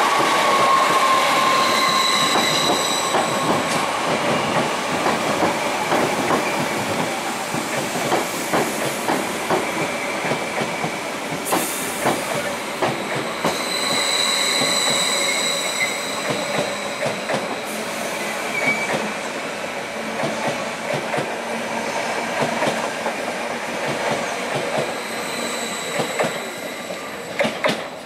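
Electric multiple-unit trains passing at close range, first a Class 315 and then a Greater Anglia Class 745, their wheels clattering steadily over rail joints and points. A high-pitched wheel squeal rises and fades three times: early, in the middle, and near the end.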